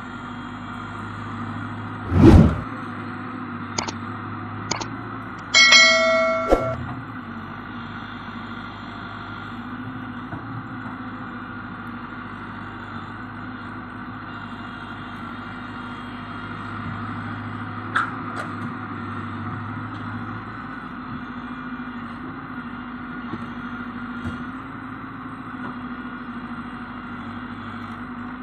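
JCB 3DX backhoe loader's diesel engine running steadily. There is a heavy thump about two seconds in and a loud ringing metallic clang about six seconds in, as of the bucket or load striking steel.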